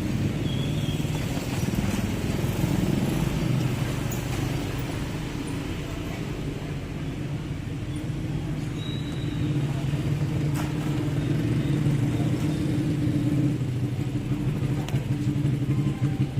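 Diesel engine of a 12-wheel truck running steadily at low revs.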